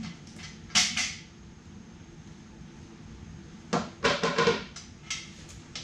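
Short scraping and clattering noises of work at the bench: one about a second in, then a quick cluster of several about four seconds in.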